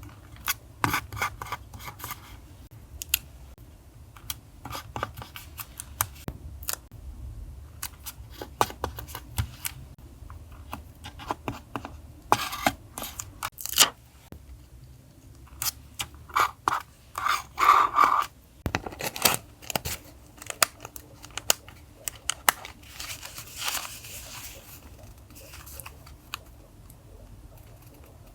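Paper collage journaling sounds: paper and stickers being handled, with scattered sharp clicks, taps and short rustles. A steady low hum runs underneath.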